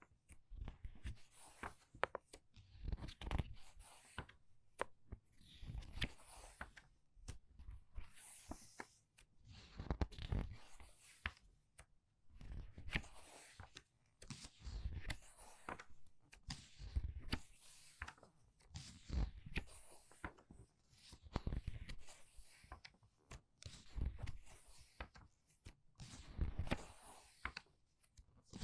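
Book pages being turned quickly by hand, about one turn every two seconds: each a crisp papery swish and flutter with a soft thump as the page settles.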